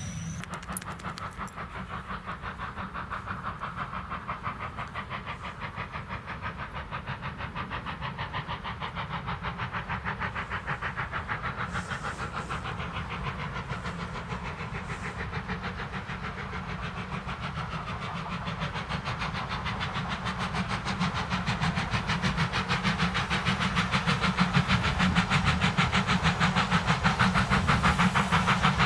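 Steam tank locomotive working under steam, its exhaust beating in a fast, even rhythm that grows steadily louder as it comes closer.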